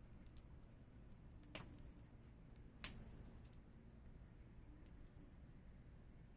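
Small wood fire crackling faintly, with two sharp pops about a second and a half and three seconds in and a few softer ticks over a low steady hum. A short high falling chirp sounds about five seconds in.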